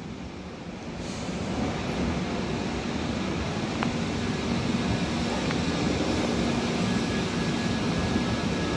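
Passenger train coach rolling slowly out along a station platform: a steady rumble of wheels and running gear that builds over the first couple of seconds, with a low hum that comes and goes.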